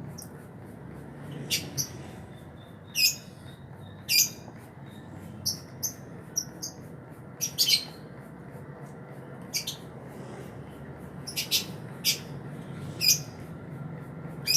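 Cucak ijo (green leafbird) giving short, sharp high-pitched calls at irregular intervals of about a second, some in quick pairs, over a steady low hum.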